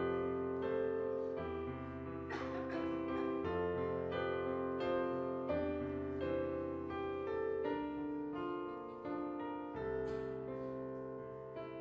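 Instrumental piano music: a steady flow of notes over held bass notes, with no singing.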